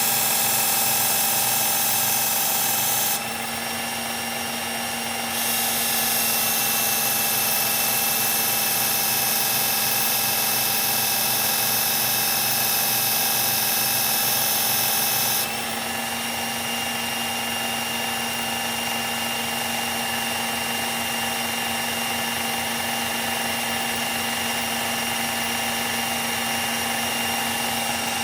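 Electric belt knife sharpener running steadily, its abrasive belt grinding the S30V steel tanto blade of a knife to raise a burr. The high grinding hiss stops about 3 s in, returns a couple of seconds later, and stops again about halfway through while the motor keeps running.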